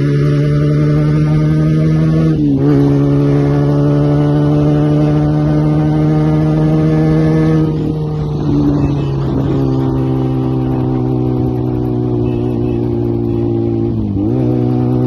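Benelli TNT 300 parallel-twin engine through an SC Project aftermarket exhaust, held at steady revs. The note drifts slowly in pitch, with a brief dip about two and a half seconds in and another near the end, and a rougher patch around the middle.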